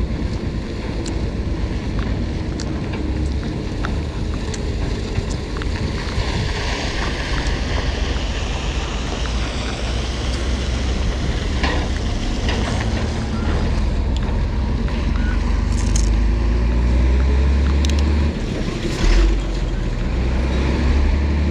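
Wind rumbling on the microphone during a bicycle ride, with road noise and scattered small clicks and rattles; the rumble is heaviest a little over halfway through.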